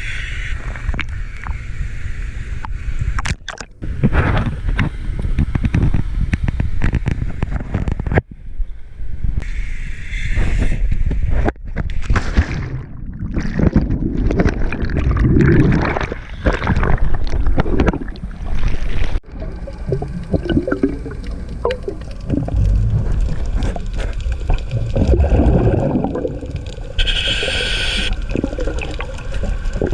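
Underwater sound around a scuba diver: bubbles gurgling and water churning against the microphone, with a short hiss of the breathing regulator a couple of times.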